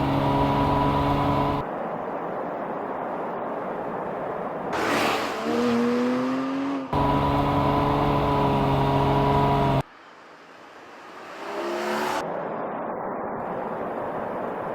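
Porsche 718 Boxster GTS 4.0's flat-six engine in several short clips cut together: steady engine notes at constant revs, a rise in revs partway through, and near the end the car passing by with its pitch falling.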